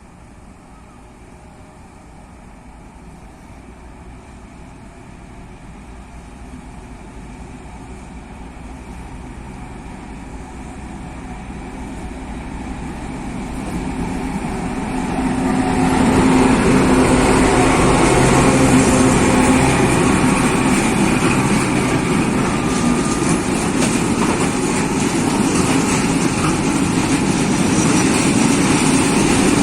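Diesel train approaching, growing steadily louder for about fifteen seconds, then running close by and loud with a steady engine drone.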